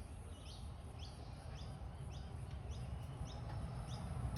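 A bird chirping over and over, short high chirps about two a second, over a low rumble.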